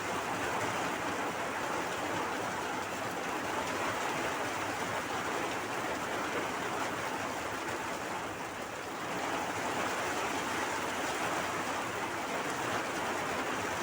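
Rain pouring steadily, a dense, even hiss that eases slightly for a moment about two-thirds of the way through.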